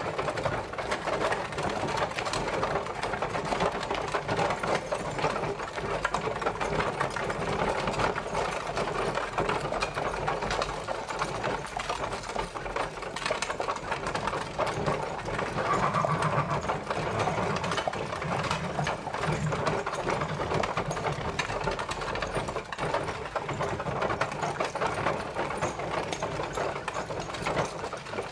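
Horse-drawn carriage travelling: a continuous, dense rattle and clatter from the carriage and its wheels over a low rumble.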